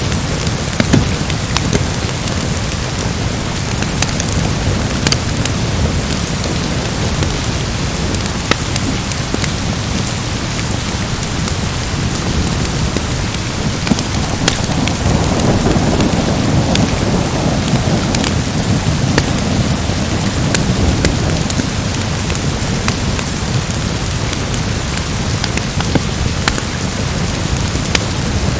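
Steady heavy rain with scattered sharp crackles, and a low roll of thunder that swells about halfway through and fades over several seconds.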